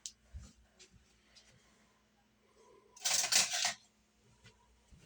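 Kitchen handling noises while mixing dumpling dough: a few light knocks and clicks, then a brief scraping rustle lasting under a second, about three seconds in.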